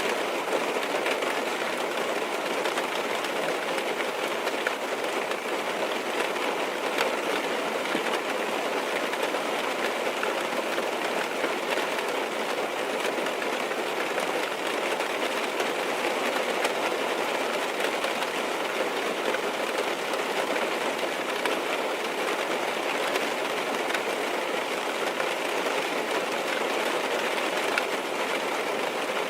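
Steady rain falling on a car's roof and windows, heard from inside the car: an even, unbroken hiss of many small drops.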